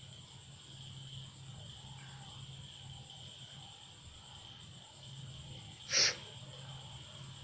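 A dying cat breathing slowly in faint, even pulses about once a second, with one sudden short sneeze-like snort about six seconds in.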